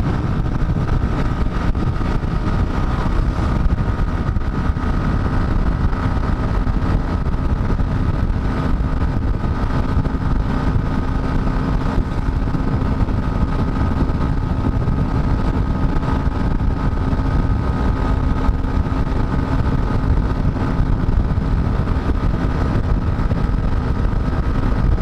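Dafra Next 250 motorcycle running at a steady cruising speed, its engine note holding constant under heavy wind rush on the rider's microphone.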